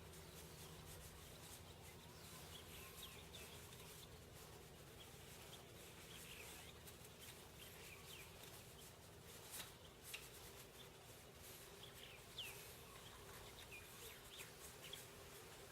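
Near silence with faint, scattered bird chirps in the background and a few light clicks.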